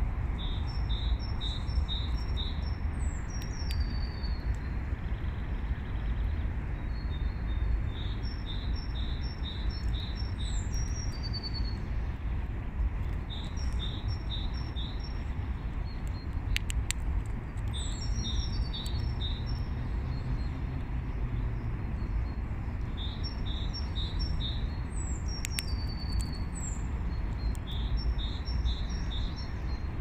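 A songbird sings the same short phrase about every five seconds: a quick run of high, even notes followed by a couple of falling whistled slurs. A steady low rumble of background noise runs underneath.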